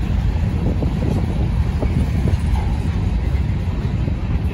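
Covered hopper cars of a freight train rolling past: a steady low rumble of steel wheels on the rails, with scattered short knocks.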